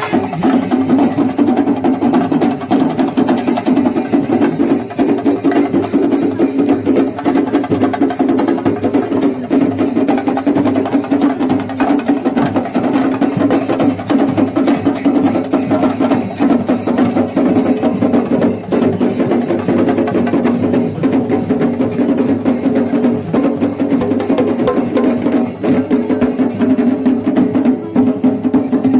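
Kerala temple percussion ensemble (chenda melam) playing: many stick-beaten drums in a fast, dense, unbroken run of strokes.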